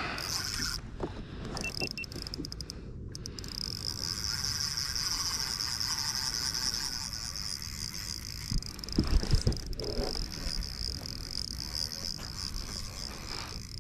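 Spinning reel's drag buzzing steadily as a hooked lake trout pulls line off, with a few low knocks on the kayak about two-thirds of the way through.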